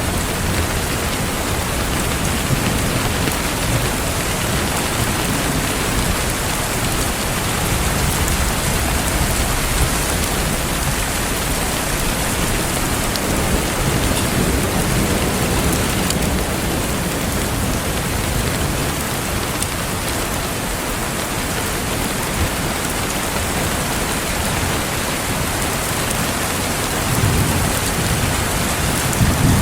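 Steady rain falling, a dense continuous hiss over a low rumble that swells briefly near the end, with a few faint clicks of a fireplace crackling.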